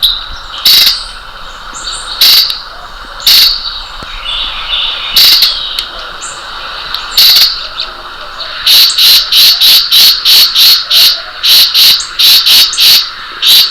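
Bird chirping close by. At first it gives single sharp chirps a second or two apart, then about two-thirds of the way through a fast run of about four chirps a second, over a steady faint trilling of insects.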